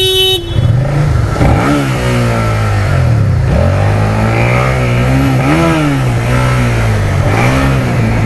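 Suzuki SFV650's V-twin engine revving up and easing off several times while riding, its pitch rising and falling. A brief beep sounds right at the start.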